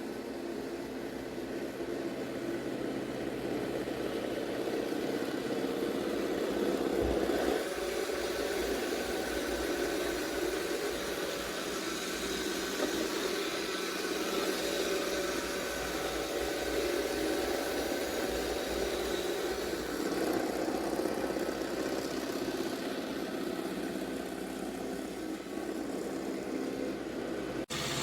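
iRobot Roomba Vac Essential (Q0120) robot vacuum running: a steady hum of its suction motor and brushes, with a few steady whining tones over a noise of air and brush sweep.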